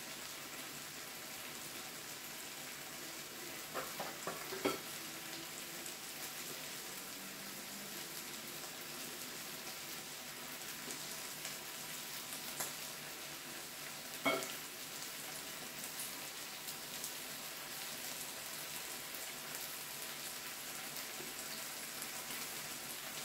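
Korean barbecue meat and side foods sizzling steadily in a hot pan, with a few sharp clicks near four seconds in and once more about fourteen seconds in.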